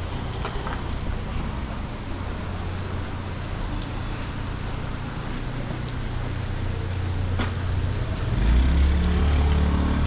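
Street traffic running. A vehicle's engine rumble gets much louder from about eight and a half seconds in.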